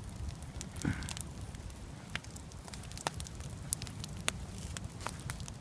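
Backyard wood campfire burning, with sharp crackles and pops scattered irregularly over a low steady rumble. A brief higher-pitched sound stands out about a second in.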